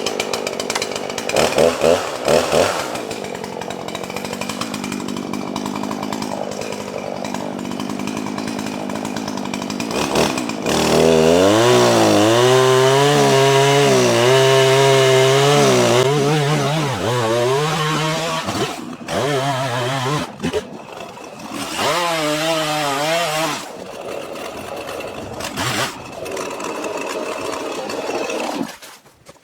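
Gas chainsaw running and cutting firewood, the throttle opened and eased off. About a third of the way in it revs up and holds high revs for several seconds, then comes and goes in shorter bursts of revving before dropping away near the end.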